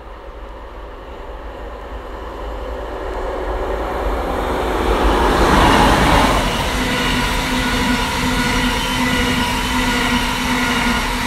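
Locomotive-hauled train approaching on electrified main line and passing close by. Its noise builds to its loudest as the locomotive goes past about six seconds in, then holds as a steady rolling sound with a hum and high ringing tones as the coaches run by.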